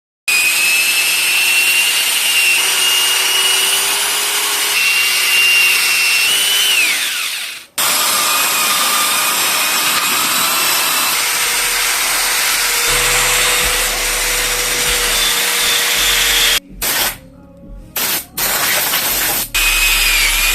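An electric power tool running at high speed with a steady whine. It winds down around seven seconds in and cuts off, then runs again and is stopped and restarted several times near the end.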